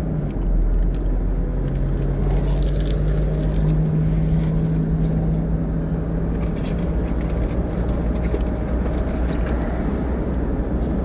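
Steady low rumble of a running vehicle, with a low steady hum that comes in about a second and a half in and fades out around seven seconds.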